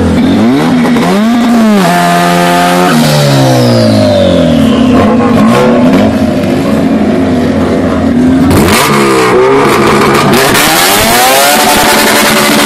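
Street-race car engines revving hard and accelerating, pitch holding high for a moment and then climbing and dropping again and again as gears are shifted. A loud rushing hiss joins in over the second half.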